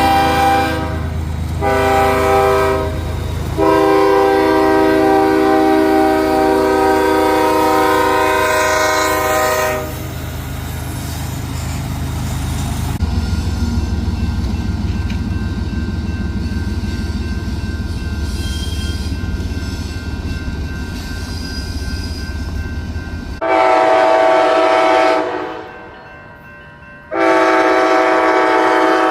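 Locomotive air horn sounding a chord of several notes in repeated blasts: two short ones, a long one of about six seconds, and two more near the end. In between, the train rumbles past with clickety-clack on the rails.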